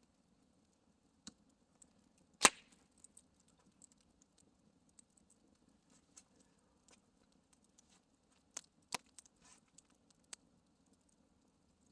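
Wood campfire crackling: scattered sharp pops and snaps, the loudest about two and a half seconds in and a quick cluster near the end, over a faint steady low rumble.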